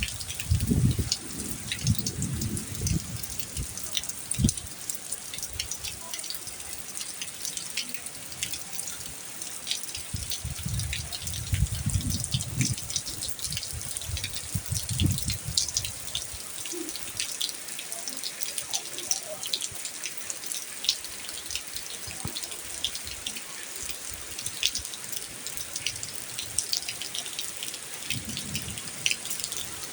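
Steady rain falling, with many individual drops ticking and dripping close by. A few low rumbles come and go in the first half.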